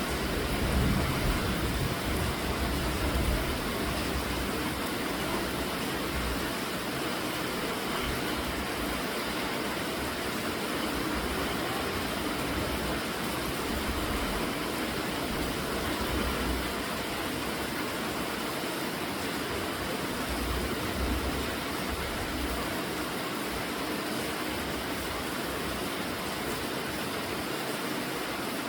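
Steady rainfall, an even hiss without let-up. Low rumbles come and go beneath it, strongest in the first few seconds.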